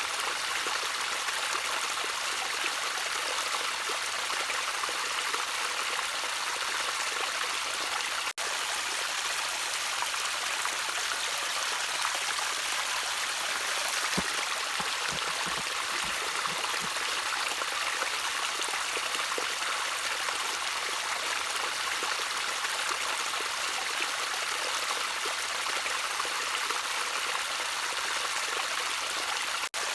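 Gentle stream of water trickling steadily, an even rush weighted toward the higher pitches with little low end. The sound drops out for an instant twice, once about eight seconds in and once near the end.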